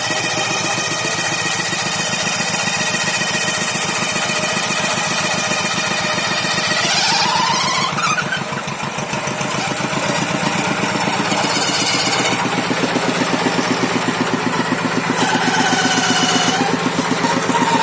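Tractor engine running with a rapid, even knocking beat. A whine over it shifts in pitch, rising about seven seconds in.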